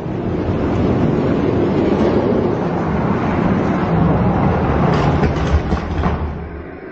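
Hot Wheels diecast monster trucks rolling down a plastic drag-strip track: a steady rumble of small wheels on the track, with a few short clacks about five and six seconds in.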